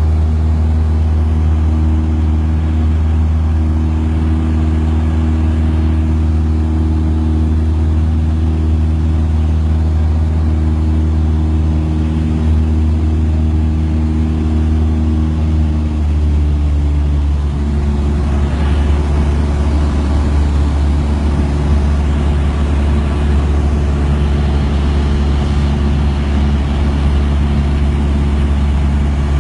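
Steady engine drone with a strong low hum. Its tones shift a little about 17 seconds in.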